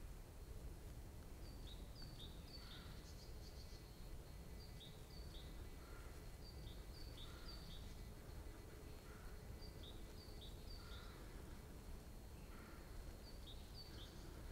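A small bird singing faintly: short high notes in runs of two or three, repeating every two to three seconds, over a faint steady background hiss.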